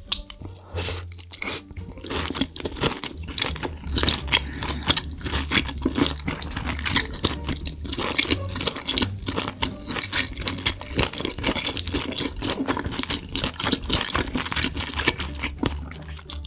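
Close-miked chewing of spicy sauce-coated seafood and vegetable stalks, with many quick, irregular wet mouth clicks and crackles.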